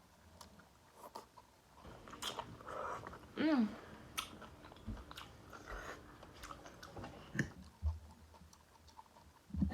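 Close-miked chewing of sea scallops and asparagus: soft wet mouth sounds and scattered smacks and clicks. A short voice sound comes about three and a half seconds in.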